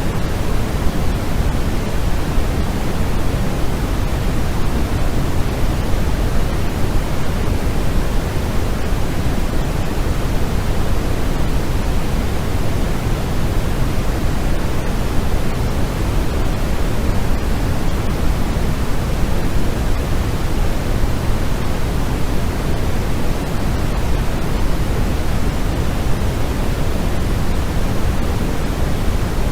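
Steady, unchanging noise from a white-noise sleep track, an even hiss with most of its weight in the low end, like pink noise.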